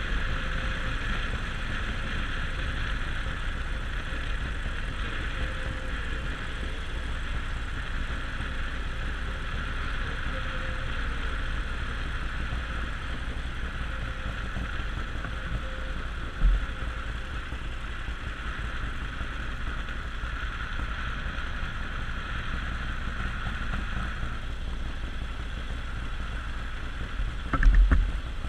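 Harley-Davidson Sportster Forty-Eight's air-cooled V-twin running steadily while riding, with a low rumble throughout. There are two brief low thumps, one just past halfway and a louder one near the end.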